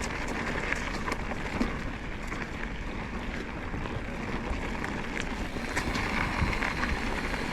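Wind buffeting the microphone and tyre rumble from a mountain bike riding a trail, with scattered small clicks and rattles.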